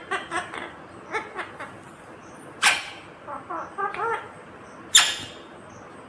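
Indian ringneck parakeet chattering in short pitched calls, with two loud, shrill screeches, about two and a half seconds apart.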